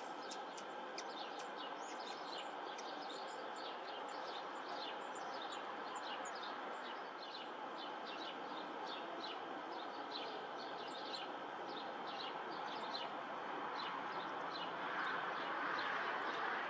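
Small birds chirping, short quick calls several times a second, over a steady outdoor hiss that grows a little louder near the end.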